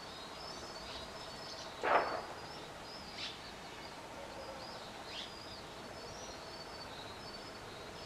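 Small birds chirping outdoors: many short, high chirps, with a couple of quick falling calls and one brief louder sound about two seconds in.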